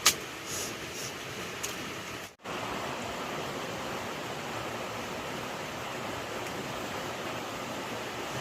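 Steady rushing noise, like wind or running water. There is a sharp click at the start and a few fainter clicks in the first two seconds, and the sound cuts out completely for a moment about two and a half seconds in.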